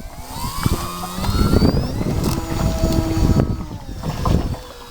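Radio-control floatplane's motor whining, its pitch rising over the first two seconds and then holding, with wind buffeting the microphone throughout.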